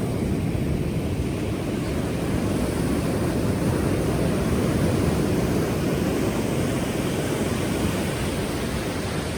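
Ocean surf: a steady, deep wash of breaking waves, with no single crash standing out.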